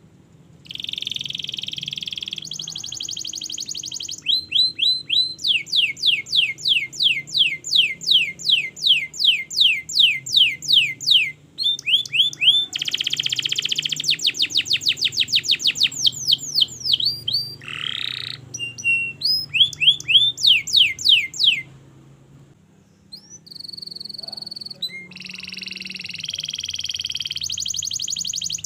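Domestic canary singing a long, continuous song: buzzy rolls alternating with runs of rapid repeated down-slurred notes, about four or five a second, with a brief pause about three quarters through.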